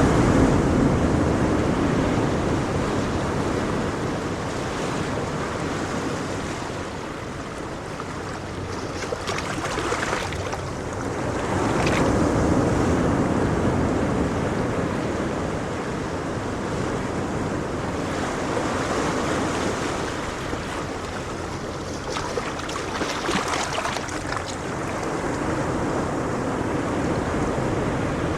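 Ocean surf: waves breaking and washing in, the rush swelling and easing over several seconds, loudest near the start and again about twelve seconds in.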